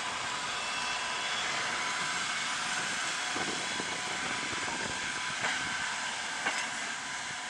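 Passenger coaches of a suburban train rolling slowly on the rails as the train arrives at the station. There is a steady hiss of wheels on track with a faint high whine, and a few light clicks from wheels crossing rail joints.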